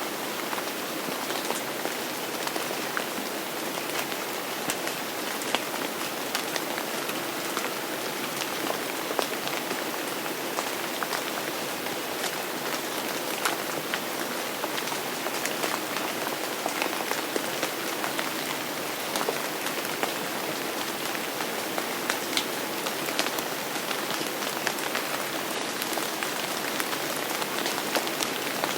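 Steady heavy rain falling on a surface, a dense even hiss with many distinct drop splashes and taps scattered through it.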